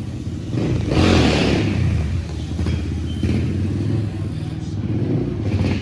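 Motorcycle engines running and revving, with a louder surge about a second in that fades over the following second.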